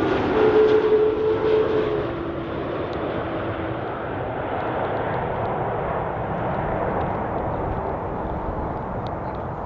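Airbus A330 airliner's jet engines during its landing, a loud roar with a whining tone in the first two seconds, then a steady rush that slowly fades as the aircraft moves away.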